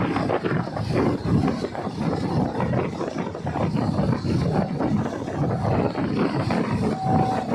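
Train running on the rails, a dense rattle and clatter of wheels and carriage. A single steady horn tone from the train begins near the end.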